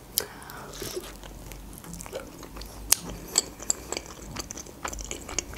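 Close-miked eating of a fried khinkali dumpling: a bite, then chewing with short wet clicks and smacks of the mouth.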